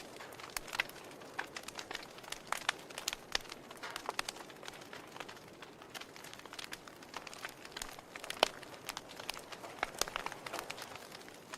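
Wood fire crackling in a fireplace: irregular sharp pops and snaps from the burning logs over a steady soft hiss, with one louder pop about eight and a half seconds in.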